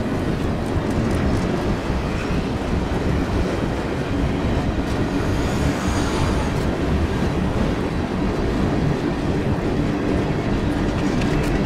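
Freight train of covered hopper cars rolling past, a steady rumble of steel wheels on the rails.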